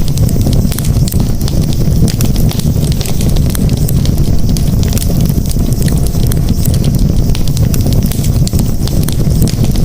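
Campfire burning: a steady low rumble of flames with many quick, sharp crackles and pops throughout.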